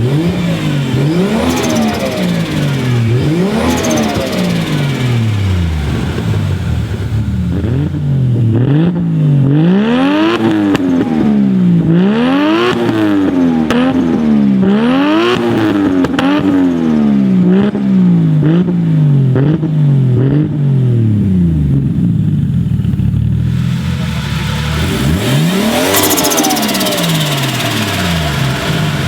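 Turbocharged Toyota 2JZ inline-six in a Nissan S13, revved in repeated free-revving blips while stationary. The first few revs are spaced out, then a quick run of about ten blips follows. It settles to idle, with one more rev near the end.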